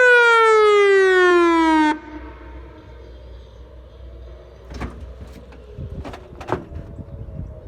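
WS-1000 outdoor warning siren sounding a loud wail, its pitch falling steadily, then cutting off abruptly about two seconds in. Afterwards a distant siren is faintly heard, with a few sharp clicks.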